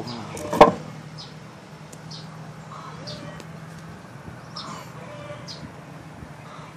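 A single sharp knock about half a second in, then faint short bird chirps about once a second over a low steady hum.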